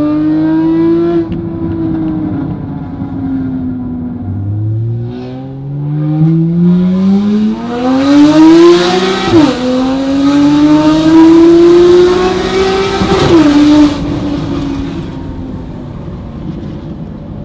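Sports car engine through a custom, nearly straight-through valved exhaust, accelerating hard: the pitch climbs steadily, drops sharply at an upshift about nine seconds in, climbs again and drops at a second shift about thirteen seconds in, then the engine eases off.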